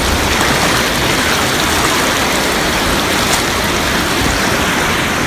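River current rushing steadily, a loud, even wash of flowing water.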